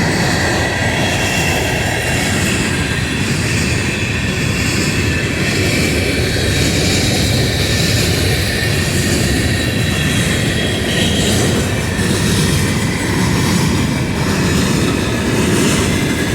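Train rolling past close by, steel wheels running on the rails in a steady rumble, with a faint high squeal from the wheels.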